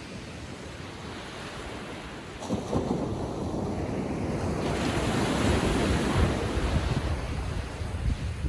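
Ocean surf on a beach: a wave breaks about two and a half seconds in, its wash swelling and then fading, with some wind rumble on the microphone.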